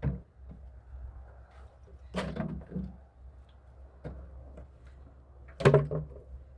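A few separate knocks and bumps, about two seconds apart, the last one the loudest, over a faint low hum.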